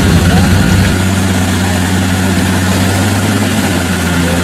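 Off-road 4x4 engine running steadily and loudly, with a broad rush of noise over it; its low hum shifts about a second in.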